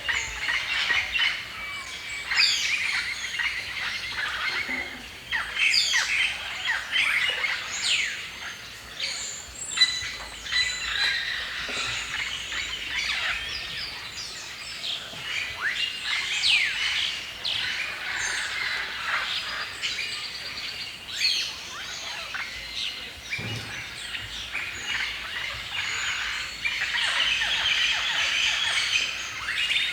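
A chorus of many songbirds chirping and singing at once, with dense overlapping calls and many quick down-slurred notes.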